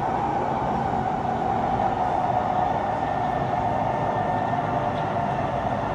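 Kawasaki C151 metro train running through an underground tunnel: a steady rumble of wheels on rail, with a whine that slowly drops in pitch.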